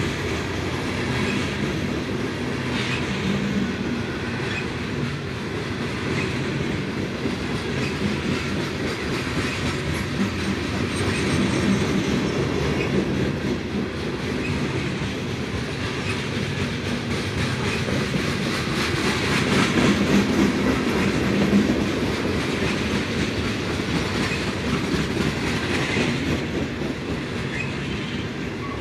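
Loaded freight train of steel gondola cars rolling past: a steady rumble with steel wheels clicking over the rail joints, swelling briefly about twenty seconds in.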